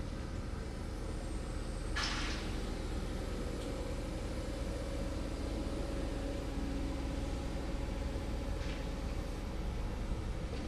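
Hydraulic excavator's diesel engine running steadily, with a brief burst of noise about two seconds in and a fainter one near the end.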